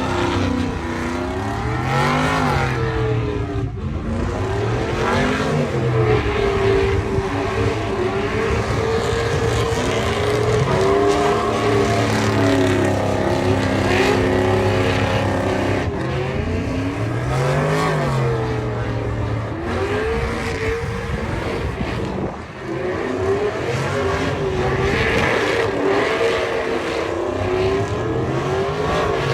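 Truck engines revving, the pitch rising and falling back several times with steady held stretches in between.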